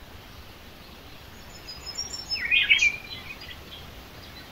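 A songbird sings a short phrase: thin high notes from about a second and a half in, then a louder burst of quick chirping notes. Faint steady background noise runs underneath.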